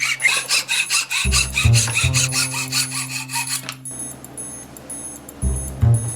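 A hand file or rasp scraping in quick repeated strokes, stopping about four seconds in, over background music with a steady beat.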